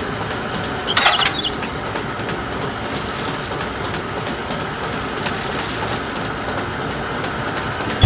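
Small motor-driven miniature flour mill running with a steady rattling grind, with a brief squeak about a second in and a sharp click near the end.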